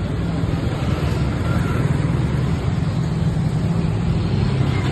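A motor vehicle's engine running steadily, a continuous low hum.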